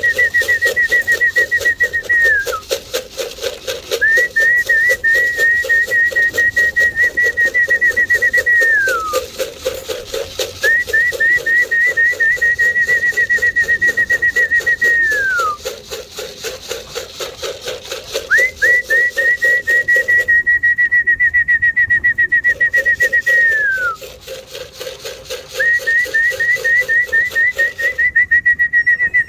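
Trilled whistling held on one high pitch in long phrases of several seconds, each ending in a quick falling glide, repeated about five times with short gaps between.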